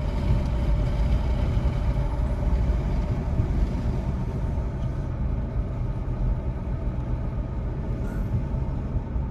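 Wind and road rumble inside a moving car with its windows open: a steady low buffeting noise that eases a little about halfway through.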